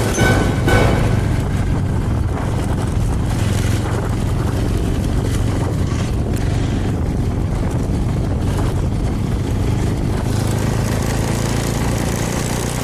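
Small motorcycle engine running steadily at cruising speed, with wind and road noise.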